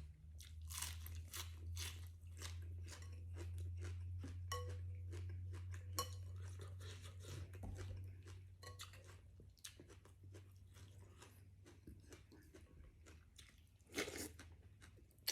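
Close-miked chewing and crunching of food: a run of irregular wet mouth clicks and crunches over a steady low hum, with a short louder noise near the end.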